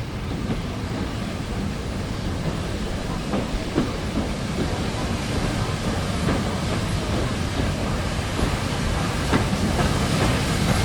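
Train hauled by Southern Railway S15 class 4-6-0 steam locomotive 30506 running on the line: a steady rumble with the clickety-clack of wheels over rail joints, a few sharp clicks standing out, growing slightly louder.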